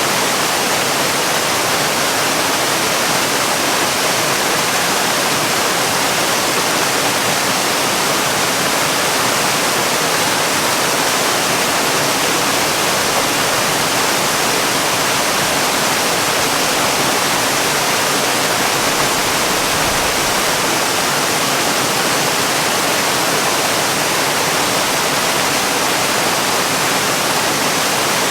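Waterfall: water falling in a steady, even rush that does not change, heavy in the middle and high range with little deep rumble.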